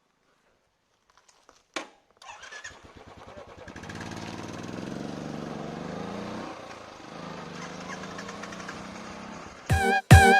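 A click, then a vehicle engine starts, its firing pulses quickening, and settles into a steady run. Loud music with chopped, stuttering notes cuts in near the end.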